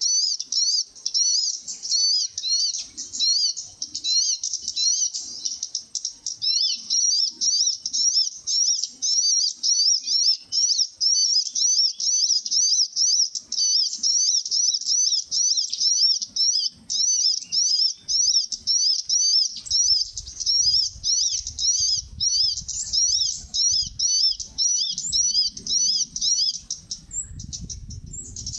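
A small bird chirping fast and without a break: short high-pitched notes several times a second. Low rustling or rumbling comes in under it from about two-thirds of the way through.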